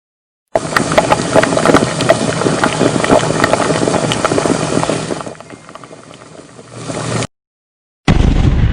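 Engine-like mechanical running noise full of rattling clicks; it starts suddenly, drops away about five seconds in, swells again and cuts off abruptly. After a short silence a separate sound starts near the end with a heavy low thump.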